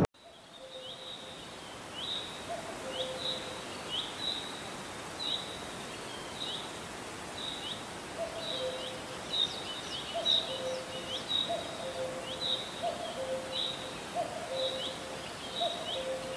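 Birds calling at dusk: a high, short chirp repeated about once a second, joined by a lower two-note call that repeats more often from about halfway through, over a steady hiss.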